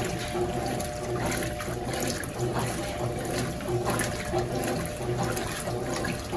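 Consul CWS12 12 kg top-load washing machine agitating a load of jeans in its rinse: water sloshing, with the motor humming on and off in repeated strokes.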